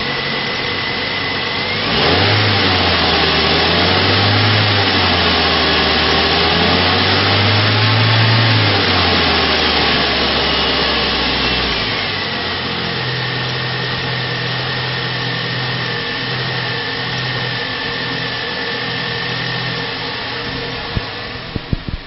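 2006 Ford Ranger's 2.3-litre four-cylinder engine idling, then revved up and down a few times starting about two seconds in, before settling back to a steady idle about halfway through. A few clicks near the end.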